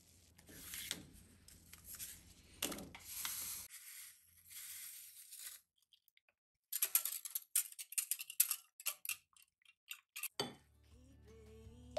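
A metal whisk beating batter in a glass bowl, a rapid run of clinks against the glass lasting about four seconds. Before it, paper sachets rustle as they are torn and emptied into the bowl. Music comes in near the end.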